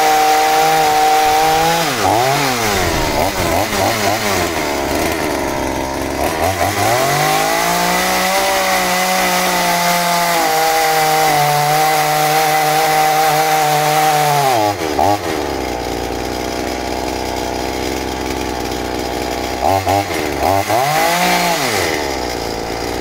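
Scheppach CSP41 41 cc two-stroke chainsaw running at full throttle while cutting wood, its engine speed sagging under load a couple of seconds in and climbing back up. About 15 seconds in the throttle is released and it drops to idle, with one short rev up and back down near the end.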